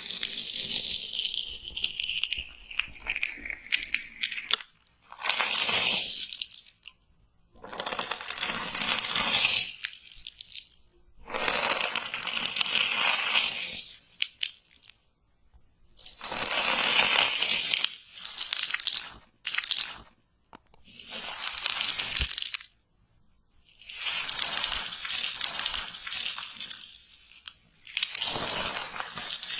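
Slime being squeezed and worked by hand close to the microphone, in about eight bouts of crackling, squishy noise a second or two long, with short pauses between them.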